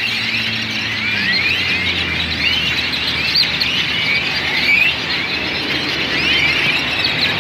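A large flock of birds roosting together, calling continuously in many overlapping squeaky chirps and whistles.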